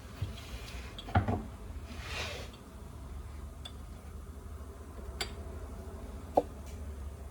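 Dishes and cutlery being handled, with a few separate knocks and clinks over a steady low hum. The loudest knock comes about a second in and another near the end, with a short hiss around two seconds in.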